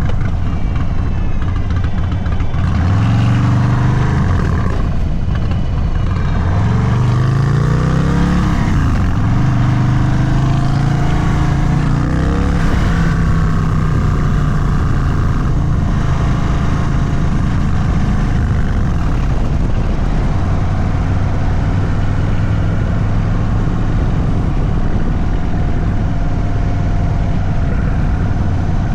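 An Indian Sport Chief's Thunderstroke 116 V-twin running through an aftermarket Sawicki Speed exhaust under way. The revs climb a few times in the first ten seconds as it pulls away through the gears, then it runs at a fairly steady speed.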